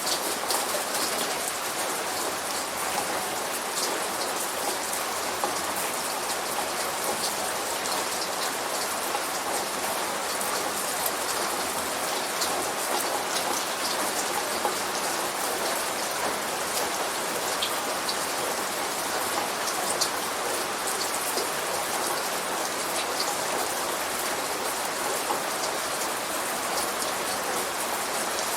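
Steady light rain falling, with individual drops pattering on a surface.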